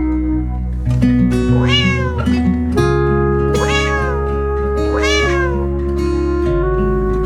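A cat meowing three times, each meow rising then falling in pitch, about a second and a half apart, over background music with held notes and a bass line.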